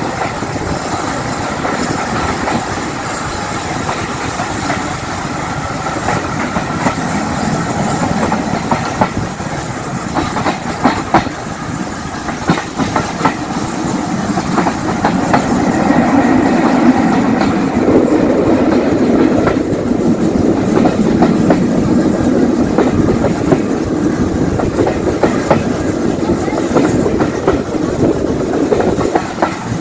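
Steam-hauled passenger coaches running along the line, heard from an open carriage window, the wheels clicking over the rail joints. The running gets louder and fuller about halfway through.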